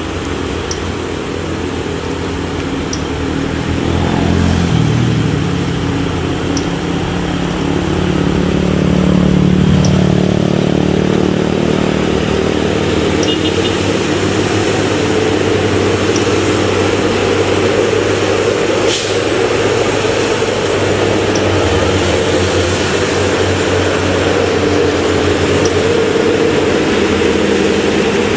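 Hino truck's diesel engine pulling hard up a steep climb, its note rising and swelling a few seconds in, then holding steady under load. A single sharp click comes about two-thirds of the way through.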